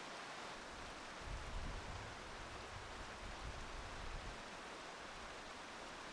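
Steady outdoor hiss, with low rumbling wind gusts on the microphone from a little after a second in until about four seconds in.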